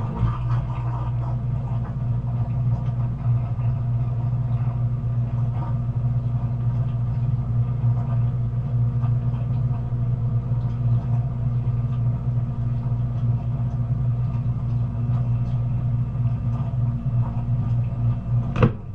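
Hotpoint dishwasher running, its motor giving a steady low hum under a fine wash-like haze. Near the end there is a sharp click and the machine winds down.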